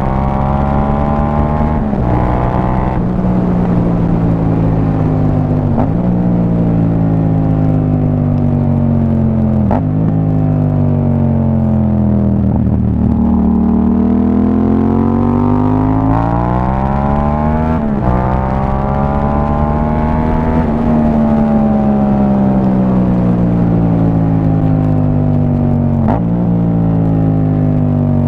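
Sport motorcycle engine with an aftermarket exhaust under way, its revs rising and falling with gear changes every few seconds, easing off about halfway through before climbing again.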